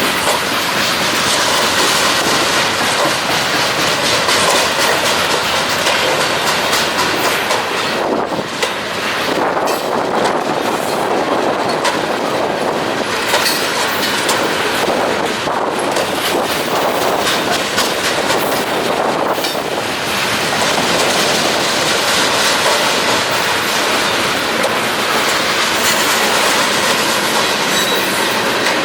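A loaded train's cars rolling steadily past, the wheels clattering over the rail joints in a dense run of clicks.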